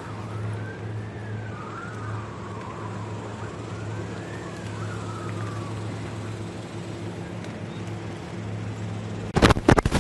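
Emergency vehicle siren wailing, slowly rising and falling in pitch, over a steady low engine-like hum. The siren fades out a little past halfway. Near the end come a few loud, sharp knocks.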